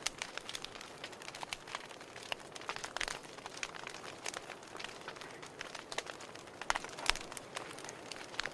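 Wood fire crackling in a fireplace: irregular sharp pops and snaps over a soft hiss of burning, with a few louder pops about three seconds in and again near the end.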